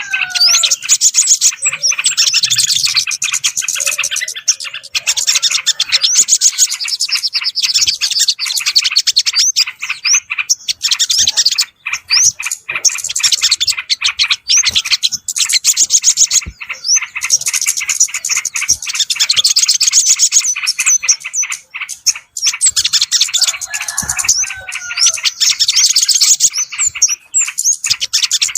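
A bird-lure recording of small songbirds calling: loud, dense, rapid chattering and twittering that never stops. A few short whistles slide downward, one at the start and another about 24 seconds in. The track is meant to attract yellow-vented bulbuls and other small birds.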